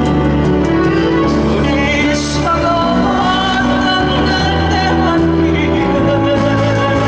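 A slow Korean ballad with keyboard backing: sustained bass notes under a melody line with vibrato, which is sung.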